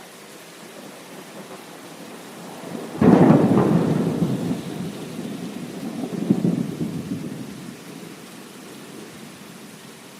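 A thunderclap breaks in suddenly about three seconds in and rumbles away, swelling again around six seconds before fading, over steady heavy rain.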